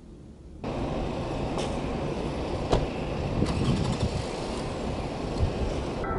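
Faint low rumble, then about half a second in a sudden jump to louder outdoor traffic noise of a running vehicle, with a few sharp clicks.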